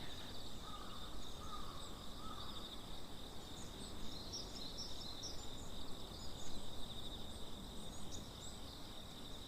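Rainforest ambience: a steady, high-pitched, finely pulsing insect trill, with faint scattered bird chirps and a few short calls in the first two seconds.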